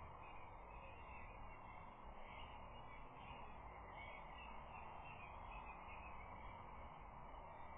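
Faint, steady outdoor ambience from the nest camera's microphone, with scattered faint, distant bird calls.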